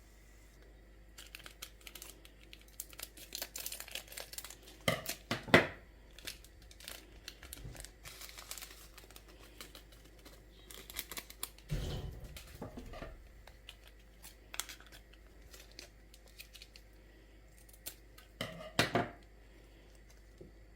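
Packaging being crinkled and torn open by hand, in irregular rustles, with louder handling noises about five, twelve and nineteen seconds in.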